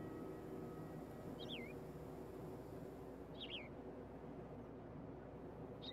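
A bird giving short whistled calls, two quick falling whistles about two seconds apart and a rising one at the very end, over a faint steady low hiss. The tail of chiming background music fades out in the first second.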